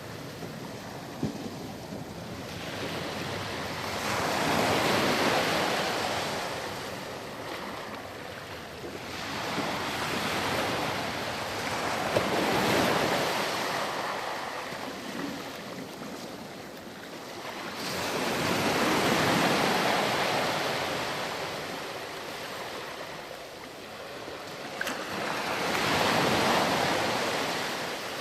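Ocean surf washing onto a sandy beach, the wash swelling and falling back in slow surges about seven seconds apart, four times.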